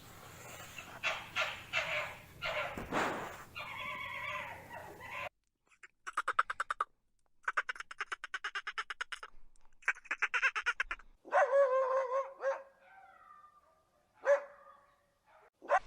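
A string of animal calls in separate short clips: a busy run of calls, then rapid trains of short repeated calls, then a few drawn-out pitched cries.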